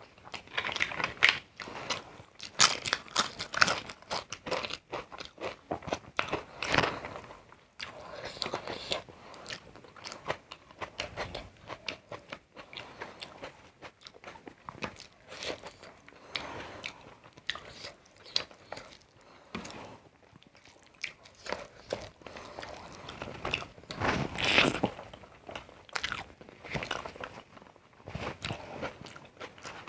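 Close-up crunching and chewing of crisp food, with irregular bites, louder bursts of crunching a few seconds in, around 6 to 7 seconds, and again near 24 seconds.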